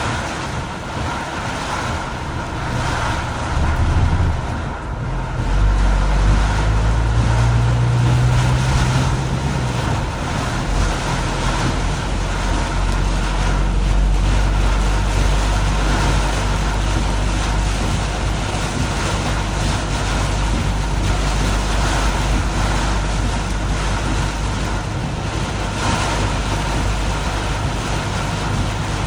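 Road traffic in heavy rain: a steady hiss of rain and wet tyres over a low vehicle rumble, which swells for a few seconds about five seconds in.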